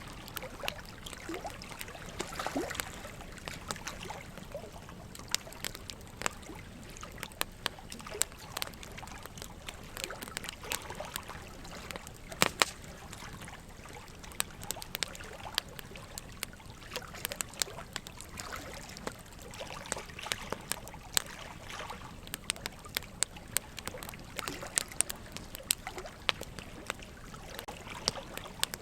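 Wood fire crackling, with irregular sharp pops and snaps, the loudest about twelve seconds in, over a steady trickle of running water.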